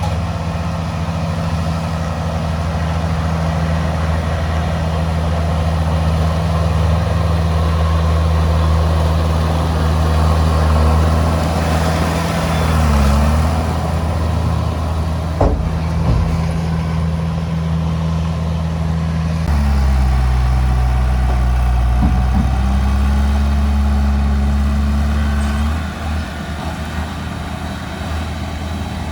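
Heavy diesel engine of earthmoving equipment running steadily, its note dipping briefly near the middle. A single sharp knock comes about halfway through, and the engine note changes to a different pitch a little later.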